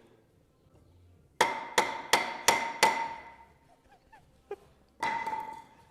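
A hammer striking the Lada VAZ-2103's starter motor: five quick ringing metal blows in a row, then one more after a pause. The starter is being knocked to free it up, as it is suspected of having gone bad from standing a long time.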